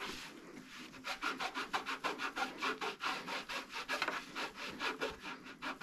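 Rapid back-and-forth rubbing strokes of hand-cleaning a motorcycle's surfaces, about four or five strokes a second, starting about a second in.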